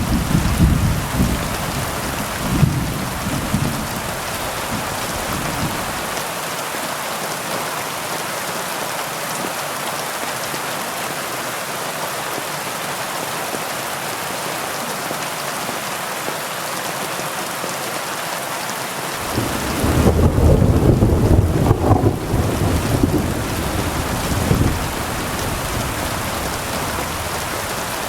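Heavy rain falling steadily. A low rumble of thunder dies away in the first few seconds, and another rolling rumble swells and fades about two-thirds of the way through.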